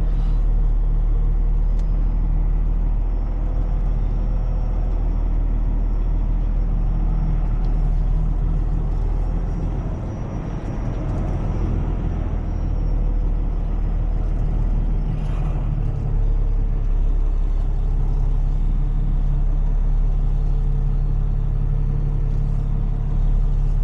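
Heavy tow truck's diesel engine running steadily with a low rumble, easing off briefly about ten seconds in before picking back up.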